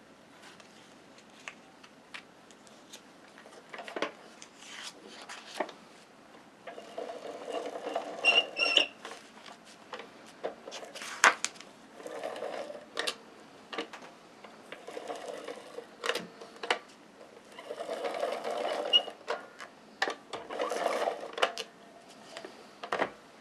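Adhesive being applied to the back of a sheet of scrapbook paper in about five short strokes, each a one-to-two-second whirring rub, with light taps and paper handling in between.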